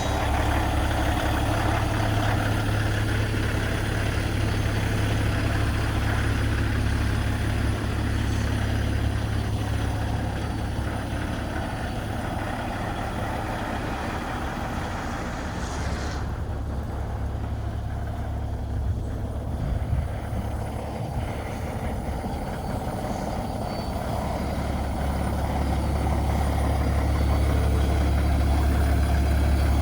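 Cummins X15 inline-six diesel engine of a Peterbilt 389 truck idling with a steady low rumble, growing a little louder near the end.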